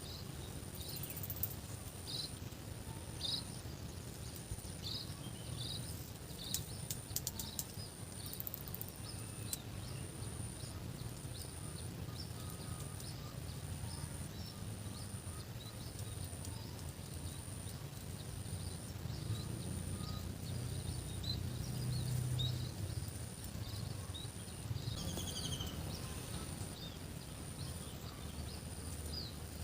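Rural outdoor ambience: a small bird chirping repeatedly, about once a second, with another bird's gliding call about 25 s in. Under it runs a high, evenly pulsing insect-like tone and a low steady rumble.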